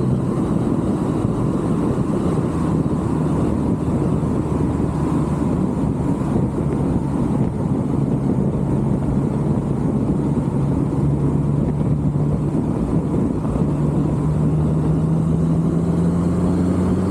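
Supercharged V8 Mustang driving at a steady speed with road noise, its engine note holding low and even, then rising slowly in pitch and growing louder over the last few seconds.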